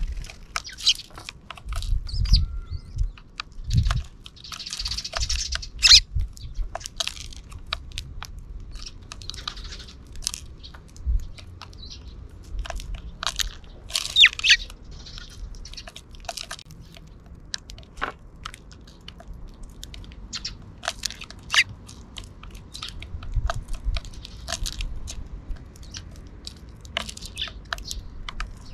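Sparrows chirping in short calls amid many sharp, irregular clicks and cracks from their beaks pecking and husking seed close to the microphone.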